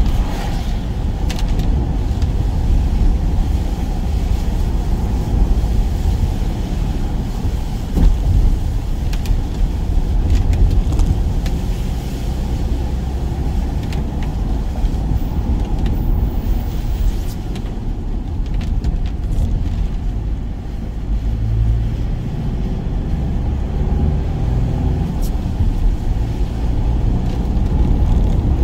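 Van driving along with a steady, low road and engine rumble and a knock about eight seconds in.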